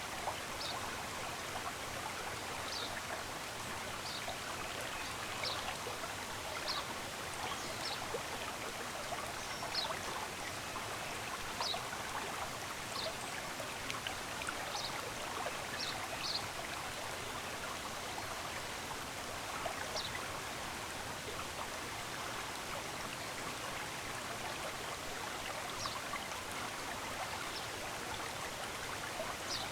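Running water in a stream makes a steady rushing sound, with small birds giving short, high chirps every second or two over it. The chirps thin out in the second half.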